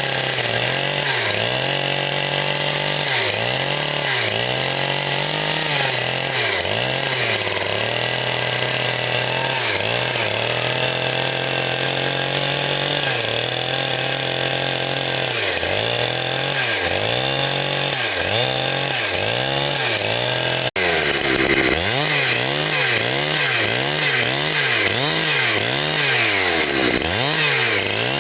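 Chainsaw engine running at high speed while cutting wood, its note dipping and recovering every second or so as the chain bogs into the cut. There is a brief break about three-quarters of the way through, then the same sound resumes.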